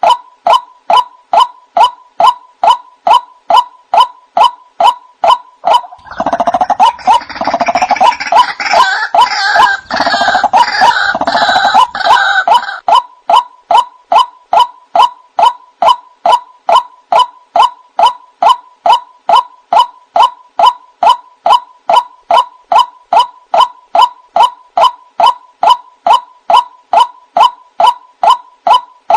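White-breasted waterhen calling, a monotonous 'wak' note repeated at an even pace of about two to three a second, a bird-luring call. From about six to thirteen seconds in, a louder, harsher chattering of the same kind of bird joins in over the steady calling.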